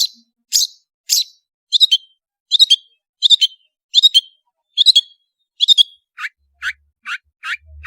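Long-tailed shrike (cendet) singing a rapid series of short, sharp, high notes, about one and a half a second. About six seconds in it switches to a lower-pitched, slightly quicker series of notes.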